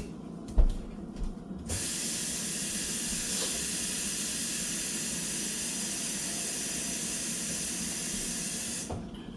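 Kitchen tap running in a steady hiss for about seven seconds, switched on abruptly and shut off near the end, after a couple of light knocks of pots being handled.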